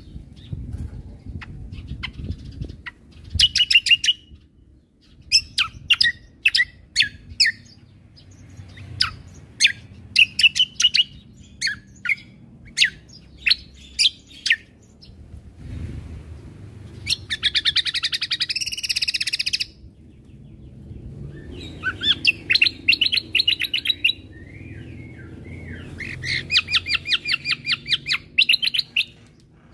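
Cucak kombo (kecial kombo) songbird singing: a series of sharp chirps broken by fast, dense trilled bursts, the 'tembakan' (shooting) phrases prized in a gacor bird, three of them in the second half.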